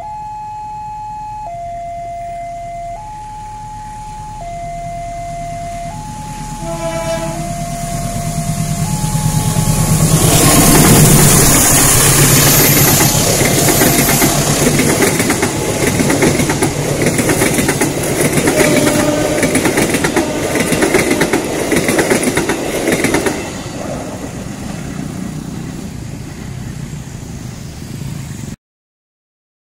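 Level-crossing warning alarm alternating between two tones about every second and a half, with a short blast from the CC201 diesel locomotive's horn about seven seconds in. From about ten seconds the locomotive and its passenger coaches pass close by, loud, with rhythmic clacking of wheels on the rails, easing off after about 23 seconds. The sound cuts off near the end.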